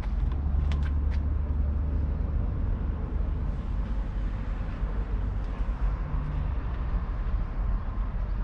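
JCB Fastrac 4160 tractor's 6.6-litre six-cylinder diesel engine running with a steady low drone.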